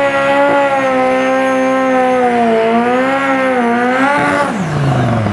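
Turbocharged LADA 2107 drag car's engine held at high revs, wavering slightly, while its rear tyres spin in a smoky burnout. Just after four seconds the revs drop away sharply.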